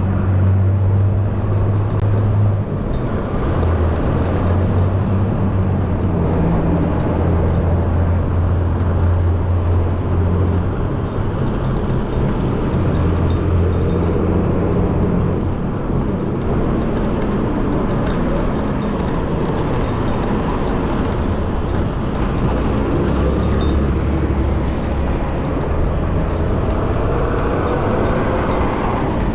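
Road and traffic noise heard while riding a bicycle through city streets: a steady rush of wind and tyres, with a low hum that comes and goes from nearby motor vehicles.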